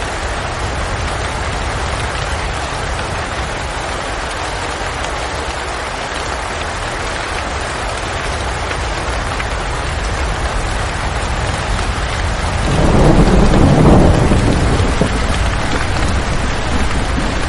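Steady rain falling, with a roll of thunder swelling up about thirteen seconds in and dying away over a couple of seconds.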